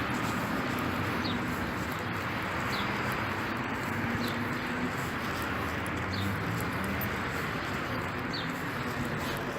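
Steady rain falling, an even hiss. A short, high, falling chirp repeats every second or two over it.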